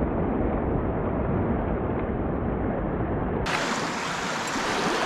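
Steady rush of flowing river water, with a low wind rumble on the microphone. About three and a half seconds in, the sound changes abruptly to a brighter, fuller hiss of running water, as at an edit.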